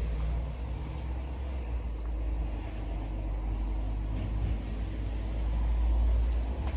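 A steady low rumble, swelling a little near the end, with a faint hiss above it.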